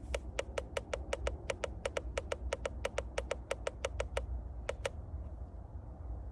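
A fast run of sharp clicks, about six a second for some four seconds, then two more after a short pause.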